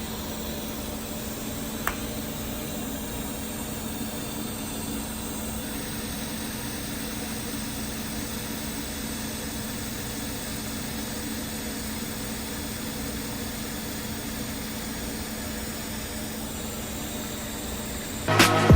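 An engine running steadily: a constant hum over an even noise, with one brief click about two seconds in. Music comes in near the end.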